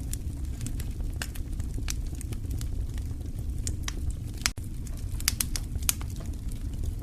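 Wood fire burning in a fireplace: a steady low rumble with irregular sharp crackles and pops. The sharpest pop comes just past the middle, followed by a split-second dropout.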